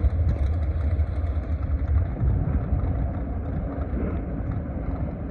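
Drag-racing car engine rumble, deep and steady, slowly getting quieter.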